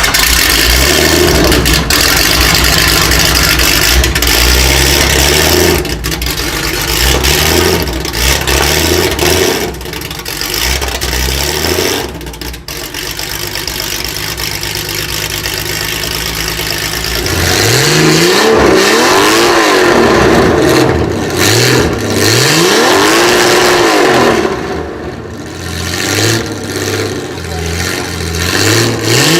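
Supercar engines revving hard. The first part is a run of stepped throttle blips. After a brief drop about twelve seconds in, the revs swing up and down again and again.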